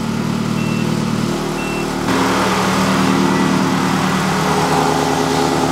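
Ferrari engine in an Alfa Romeo 105 idling steadily, its exhaust valves closed. The note shifts and grows a little louder about two seconds in.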